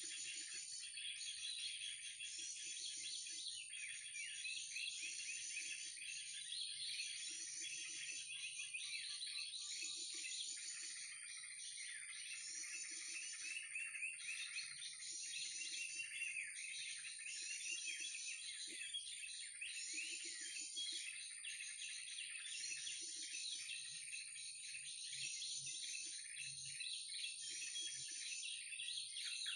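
Bird-trapping lure recording of krucukan and other bird calls playing on a loop: dense, high twittering and chirping whose pattern repeats evenly about every second and a half, over a steady high-pitched whine.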